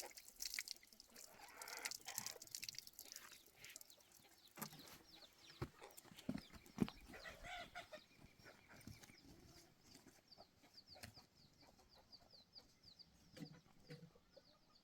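Chickens clucking faintly, with a quick run of short high peeping chirps in the second half. A few scattered knocks sound in the first half, the loudest about seven seconds in.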